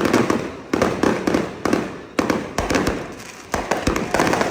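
Firecrackers going off in rapid strings of sharp bangs, the crackle flaring up again about every half second to second.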